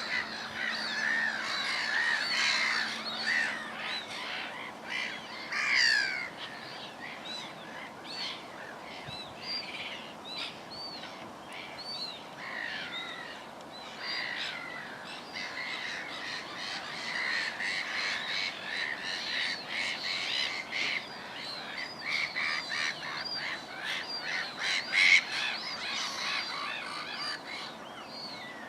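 Several wild birds calling together: a busy run of short chirps and arched whistled notes, with a couple of louder calls standing out.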